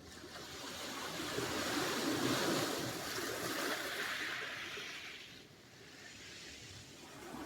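Sea surf: a wave swells up and breaks, peaking two to three seconds in and washing away by about five and a half seconds. The next wave begins to build near the end.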